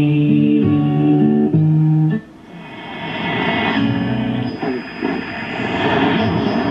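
Shortwave radio signal on 7274 kHz through a Kenwood R-1000 receiver. Held, stepping musical tones cut off sharply about two seconds in, then a noisy, warbling signal with wavering pitches slowly swells back up.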